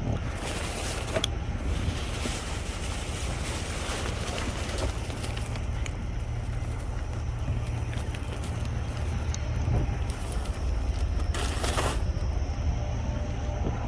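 Plastic bags and discarded items rustling and crinkling as they are handled, with louder bursts near the start and again near the end, over a steady low rumble.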